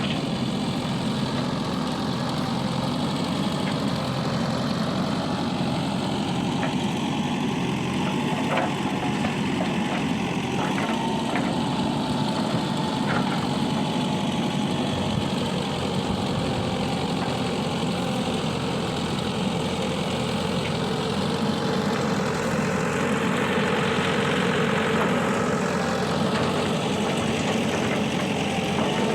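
Diesel engine of heavy earthmoving machinery running steadily, with a few sharp knocks in the first half. About three-quarters of the way through, a higher whine rises and then falls away.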